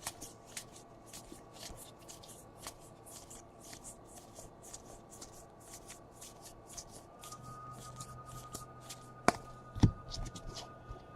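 Trading cards being slid and flicked through by hand, a quiet run of soft flicks a few per second, with two sharper taps near the end.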